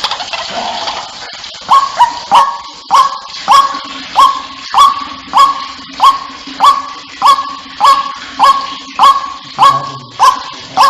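White-breasted waterhen calling over and over, a quick run of about fifteen sharp, upward-swept 'ruak' notes, roughly one every half-second, beginning about two seconds in. A faint steady hum lies underneath.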